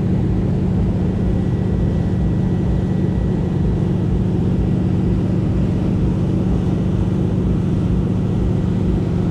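Motorboat engine running steadily at a constant speed, an even low drone with no change in pitch.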